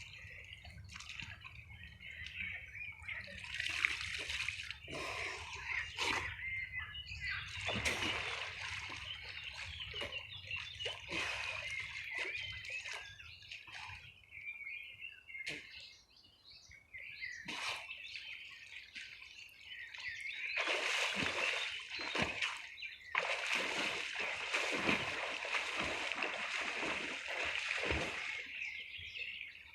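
Water splashing and sloshing as a person bathes in open water, in irregular spells of splashes that die down for a few seconds midway and pick up again, busiest near the end.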